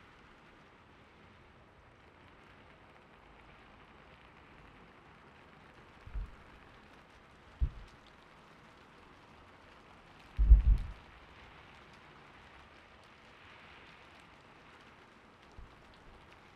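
Steady, gentle rain. A few soft, low thuds break in; a short cluster of them about two-thirds of the way through is the loudest sound.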